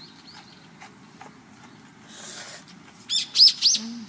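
A small bird chirping: a few faint high chirps at first, then a quick run of loud, sharp chirps about three seconds in.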